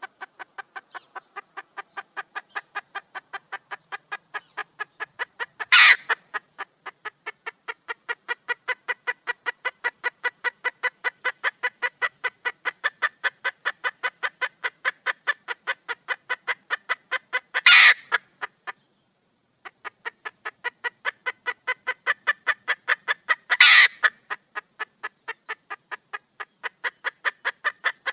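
Red junglefowl hen calling for a mate: a long, rapid series of clucking calls, about four to five a second, with three much louder sharp squawks breaking in.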